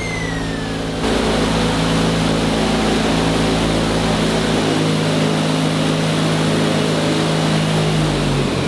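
Giant fan running at full power: a steady motor hum under a loud rush of air, which grows stronger about a second in. Near the end the hum sags in pitch and cuts off.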